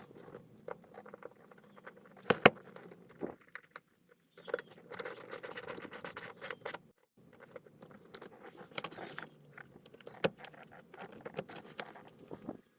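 Handling noises: scattered clicks and knocks, the loudest about two and a half seconds in, with stretches of rustling and scraping in between.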